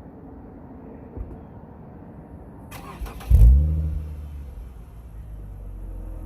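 Lexus IS350's V6 starting through an Invidia Q300 axleback exhaust. It cranks briefly about halfway through, flares loudly as it catches, then settles into a steady idle on an engine that is already a bit warm. A single low thump comes a little over a second in.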